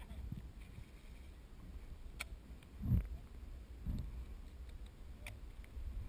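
A few faint, sharp clicks and two low thumps, the louder thump about three seconds in.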